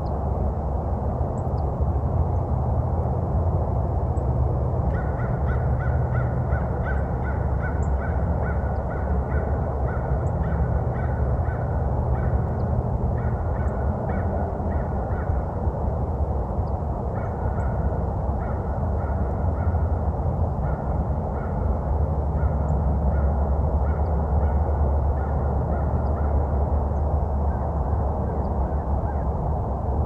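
A bird calling in a long, quick series of short repeated notes, starting about five seconds in with a couple of brief pauses, over a steady low rumble.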